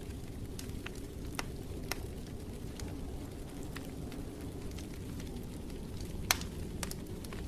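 Wood fire burning in a fireplace: a steady low rumble with scattered sharp crackles and pops, the loudest pop about six seconds in.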